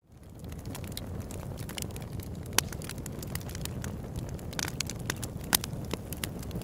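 Open-air wood campfire burning: a steady low rumble with frequent crackles and sharp pops, two pops standing out clearly, one near the middle and one near the end. The sound fades in from silence at the start.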